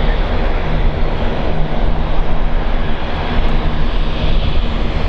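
Airliner engines running loudly and steadily, with wind buffeting the microphone.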